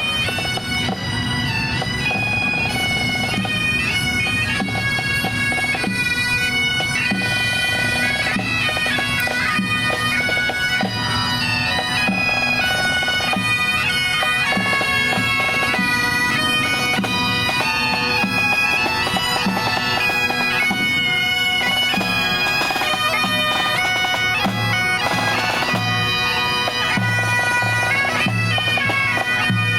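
Bagpipes playing a marching tune over their steady drones, with a regular drum beat underneath.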